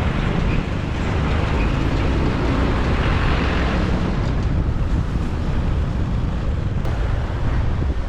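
Steady wind rush on the microphone mixed with the road and traffic noise of a motorbike ride, with a louder swell of noise about three seconds in.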